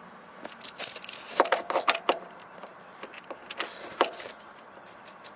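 A power cord's plug being lined up and fitted into a 12-volt fridge's power socket: bunches of small clicks and rattles as the plug is fiddled into place.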